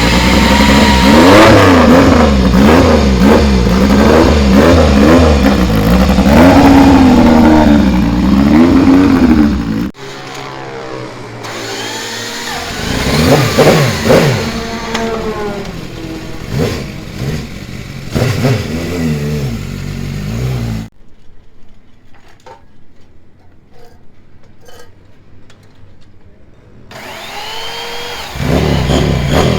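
Classic racing motorcycle engines being revved: for about ten seconds one engine's throttle is blipped rapidly up and down, then after a cut other engines rev and die back, a quieter stretch with faint ticks follows, and an engine revs up again near the end.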